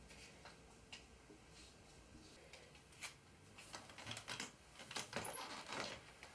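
Faint scattered clicks and rustles of things being handled on top of a wooden wardrobe, growing busier and louder in the second half as a child turns and steps down from a wooden stool.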